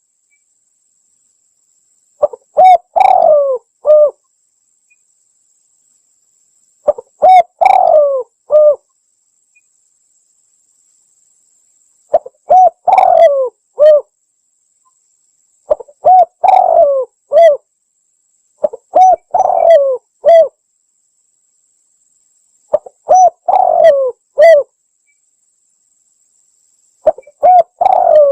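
Spotted dove (tekukur) cooing in repeated phrases, a bird-trapping lure call: seven short phrases of three or four low coo notes each, about every four seconds, with silence between them.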